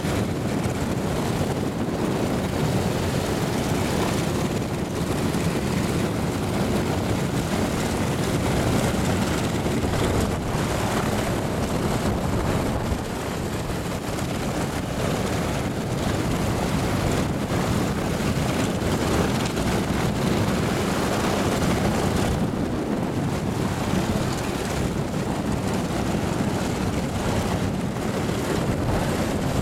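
Douglas DC-3's twin radial piston engines running steadily.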